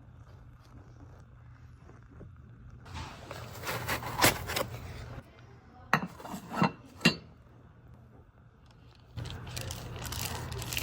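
Unboxing handling noise: packaging rustling and scraping in two stretches, with three sharp clicks or taps between them.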